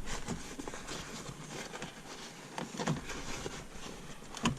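Hands working a shift boot down over a car's shifter: faint rubbing and handling noise with several small knocks, the sharpest near the end.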